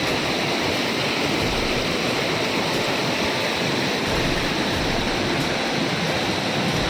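Steady rush of a large waterfall and the swift river below it, a continuous even roar of falling and flowing water.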